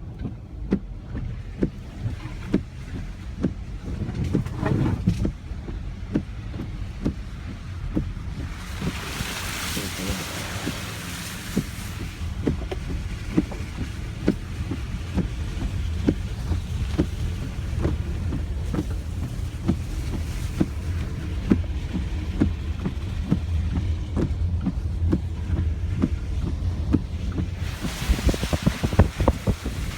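Vehicle road noise from a moving car: a steady low rumble with frequent small knocks, and a rushing hiss swelling about nine seconds in and again near the end.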